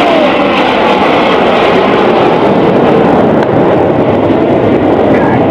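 BAE Hawk T1 jets of the Red Arrows flying a low pass, a loud, steady rush of jet engine noise.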